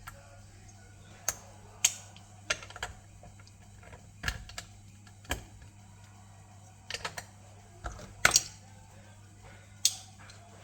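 Plastic Lego bricks clicking and knocking as they are handled, in irregular separate clicks about every half second to second.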